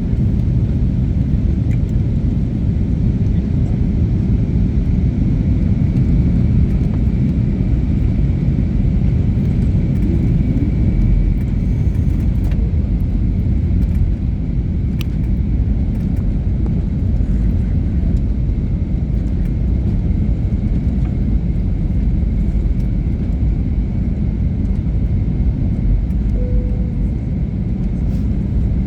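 Airliner cabin noise on the approach to landing: a steady low rumble of engines and rushing air, with a faint steady high whine above it.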